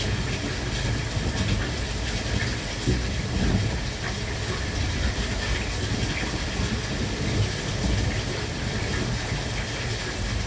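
JR West Thunderbird limited express electric train running: a steady low rumble with faint clicks from the wheels over the rails.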